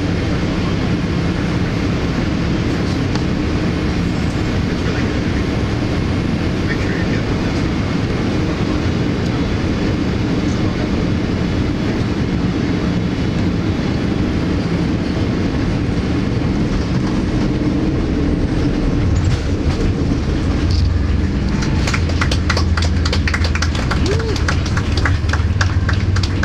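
Steady cabin roar of a Boeing 787 airliner. About twenty seconds in, a heavier low rumble with fast rattling sets in: the airliner touching down and rolling out on the runway.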